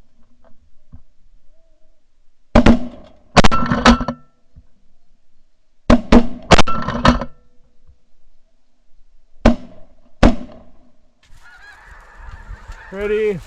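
Volleys of shotgun fire: a quick string of shots, a second string a couple of seconds later, then two single shots. After that, a flock of snow geese honking, with one louder call near the end.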